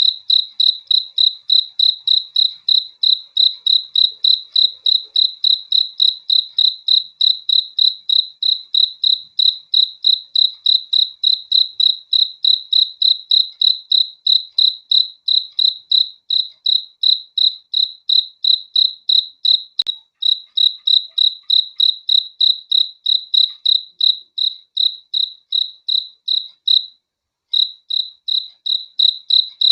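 A cricket chirping, a steady train of short high-pitched chirps at about three a second, with one brief pause near the end.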